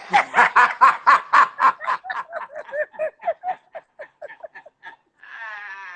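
A man laughing hard in quick rhythmic bursts, about four to five a second, loudest at first and tapering off over several seconds. Near the end comes a high, drawn-out wail of laughter.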